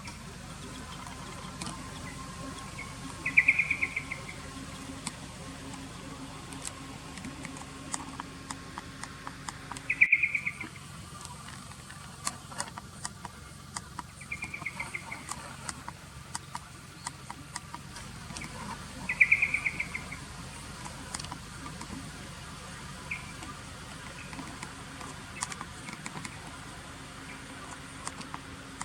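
Brambling calls: short bursts of rapid chattering notes, four or five times a few seconds apart, with scattered faint clicks over a faint steady hum.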